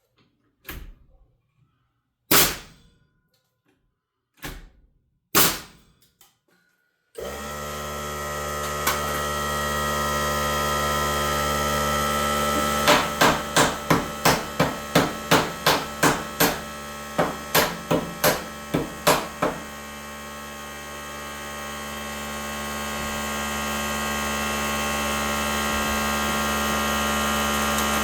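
Hammer blows, likely driving nails into wall framing: a few separate strikes, then a steady hum comes in about seven seconds in. Over the hum, a quick run of about a dozen strikes comes at roughly two a second.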